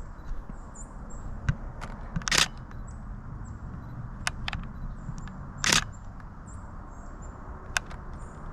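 Canon Rebel T7i DSLR shutter firing in two short bursts, about two and a half and six seconds in, with a few single clicks between them.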